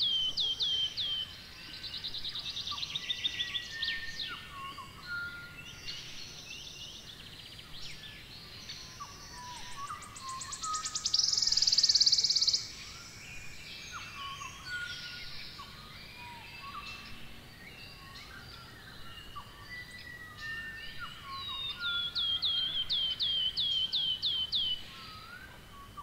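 Several songbirds singing together: runs of quick descending whistled notes and scattered chirps. About eleven seconds in comes a loud buzzing trill lasting about two seconds.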